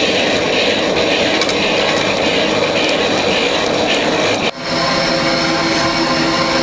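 Electric blower running steadily, its impeller pushing a loud rush of air into a coal forge. About four and a half seconds in it breaks off briefly and comes back as a steadier motor hum.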